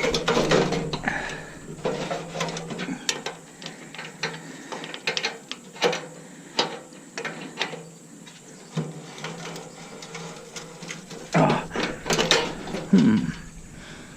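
Irregular clicks, ticks and knocks of hand tools working on a stainless-steel coffee maker's parts while a connection at the bottom is being worked loose, with a louder clatter near the end.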